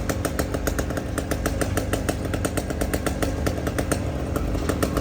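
An engine running steadily, with an even, rapid pulse at about nine beats a second.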